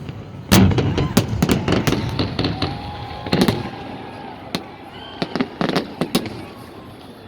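Fireworks salute going off: many sharp bangs and crackles in quick, uneven succession. The loudest burst comes about half a second in, and the bangs thin out and grow quieter toward the end.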